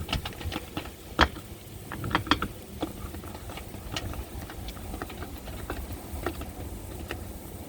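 Ratchet wrench clicking in short irregular runs, with scattered metallic clicks, as a skid plate bolt is run in.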